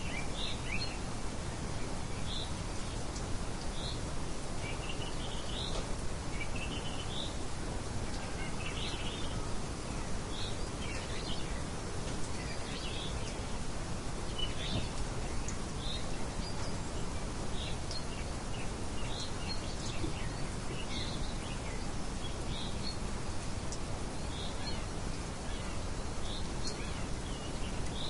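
Steady wind with small birds chirping in short, high notes, a few every second throughout.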